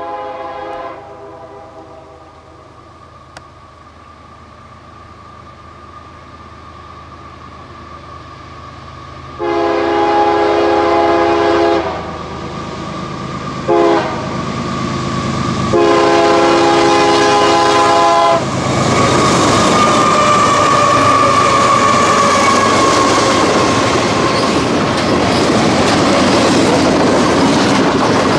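Locomotive air horn blowing the grade-crossing signal: the end of one blast, then a long blast, a short one and a long one as the train approaches. After that the train passes close by, a loud steady rumble of engine and wheels on the rails.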